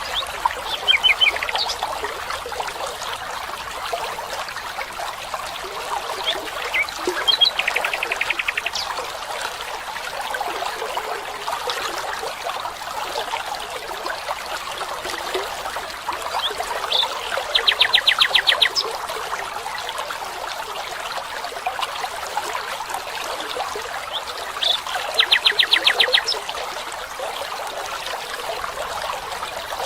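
A stream trickling steadily, with a bird giving a fast trill of rapidly repeated high notes four times, about every eight seconds.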